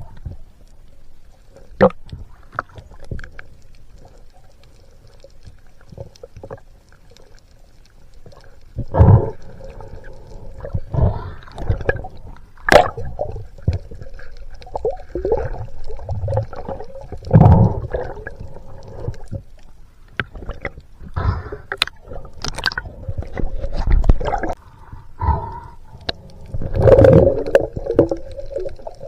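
Muffled water gurgling and sloshing in irregular bursts, with a few sharp knocks.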